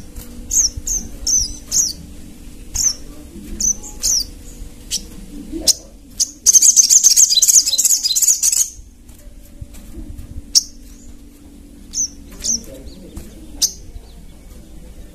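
Caged little spiderhunter (sogok ontong) calling: sharp, high single chirps repeated about once or twice a second, broken about halfway by a loud, fast trill lasting about two seconds.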